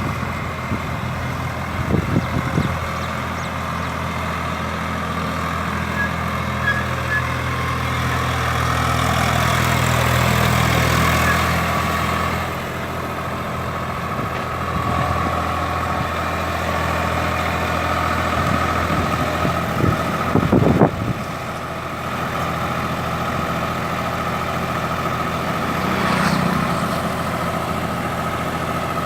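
Swaraj tractor's diesel engine running steadily, its note swelling for a few seconds about a third of the way in and then dropping back. A few short knocks or clatters come through, the loudest about two-thirds of the way in.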